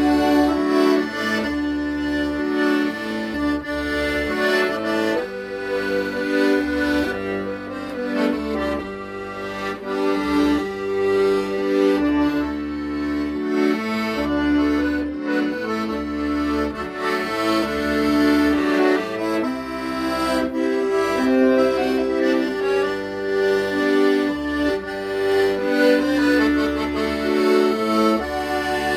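Accordion playing a slow ballad melody in long held notes over a steady bass accompaniment.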